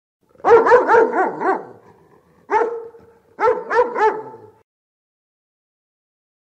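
Dog barking: a quick run of about five barks, then a single bark, then two more.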